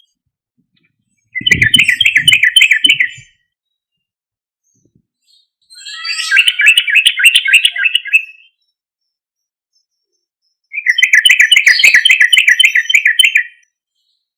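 Yellow-vented bulbul (trucuk) singing a loud 'gacor' song: three bubbling phrases of rapid repeated notes, each about two to three seconds long, with pauses of a few seconds between.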